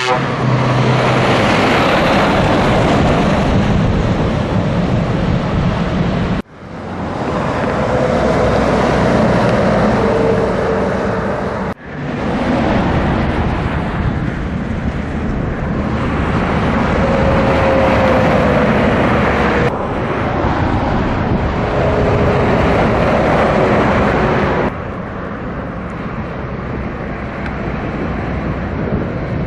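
Scania truck on the road: steady, loud engine, tyre and wind noise with a faint whine that slides in pitch now and then. The sound cuts off abruptly and starts again about 6 and 12 seconds in, and steps down in level near 20 and 25 seconds.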